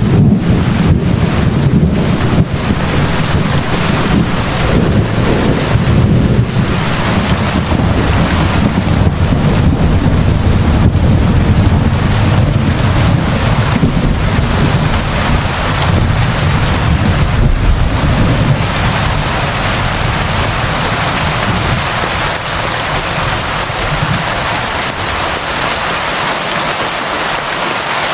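Heavy, steady rain pouring down. A deep low rumble runs beneath it and eases off about twenty seconds in.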